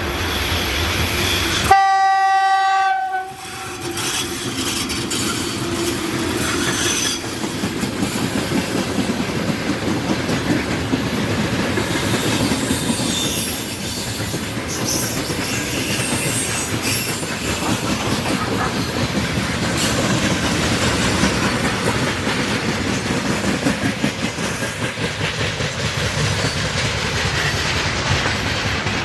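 A locomotive horn sounds once, a single steady tone of about a second and a half, about two seconds in. A freight train then passes, its wheels rumbling and clattering steadily over the rail joints.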